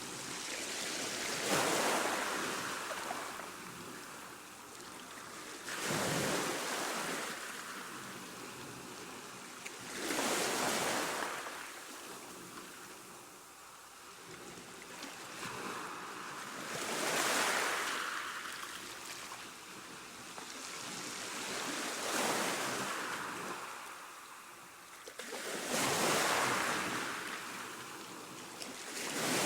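Ocean waves breaking on a shore, one wave washing in about every four to five seconds, each rising quickly and then fading away.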